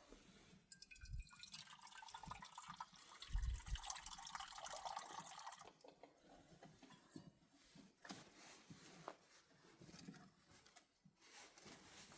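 Faint splashing water for about five seconds, then scattered drips and small knocks.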